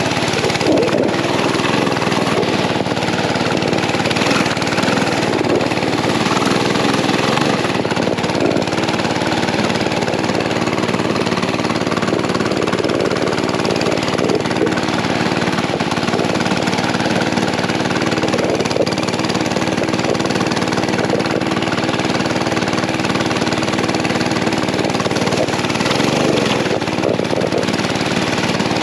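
Mini bike's small engine running steadily while towing a sled, with a constant rushing noise over it.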